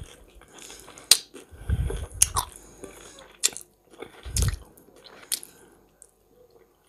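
Close-miked chewing and mouth sounds of a person eating hot-smoked sea perch, with several sharp clicks and a few soft low thumps.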